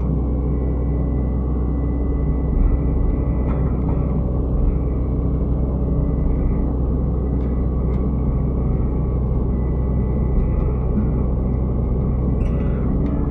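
Excavator diesel engine running steadily under working load, a deep even drone with a few faint knocks.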